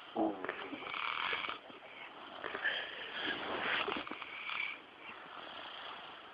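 Dog snoring in its sleep: rough breaths in and out, each lasting a second or so, with a short pitched snort just after the start.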